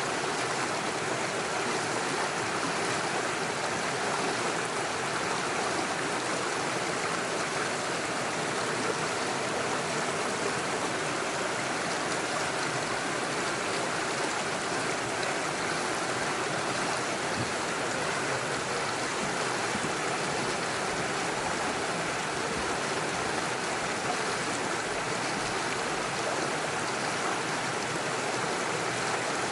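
Small rocky stream running steadily over stones and little waterfalls, a continuous rushing and babbling of water.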